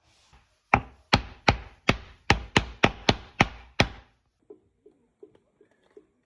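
A quick series of about nine sharp blows on wood, roughly three a second, as in working a wooden blank with a hammer, mallet or hatchet; a few faint taps follow.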